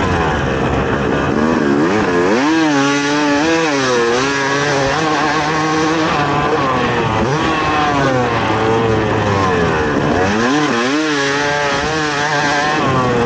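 Yamaha YZ250 two-stroke dirt bike engine revving hard, its pitch climbing and dropping again and again as the throttle is worked, with two spells of quick up-and-down revving.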